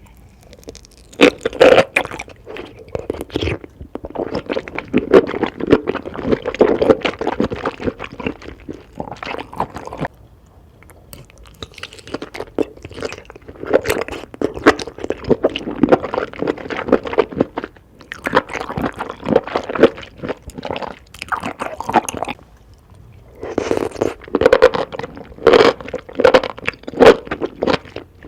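Close-miked eating: crunchy bites and chewing in several long runs of crackling clicks, broken by short pauses.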